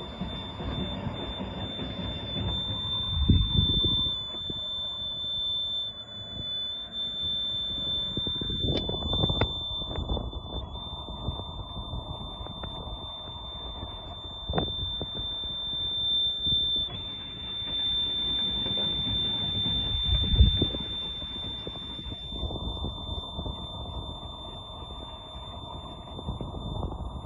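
Steady high-pitched warning buzzer from a boat engine's control panel, sounding continuously while the engine is not running. Beneath it come several spells of low rumbling as the engine is cranked without catching, loudest about three, nine and twenty seconds in. The engine is hard to start after sitting unused.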